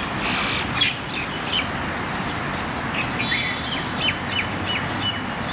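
Birds giving short, high chirps several times, mostly in the second half, over a steady outdoor background hiss.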